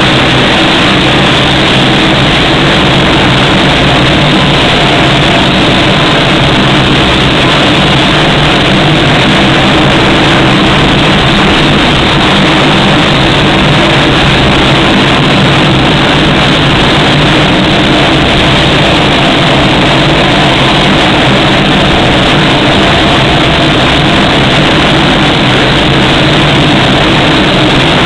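Lockheed P-3C Orion's Allison T56 turboprop engines running, a loud steady drone with several constant tones beneath it.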